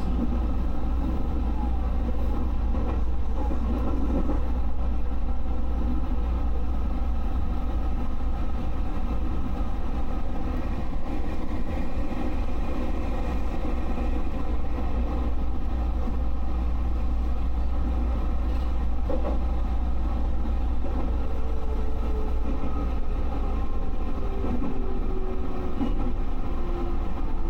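Steady low rumble and hum of a JR West 221 series electric train, with a faint tone gliding slowly down in pitch near the end.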